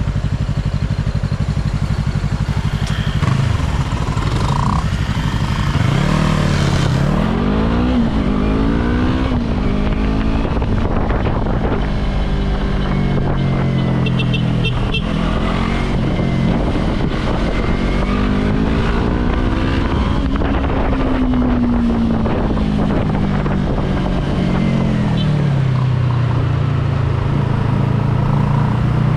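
Yamaha YZF-R3 parallel-twin engine under way, its revs climbing and dropping over and over as the rider accelerates, shifts and rolls off. Wind rushes over the microphone, heaviest in the first several seconds.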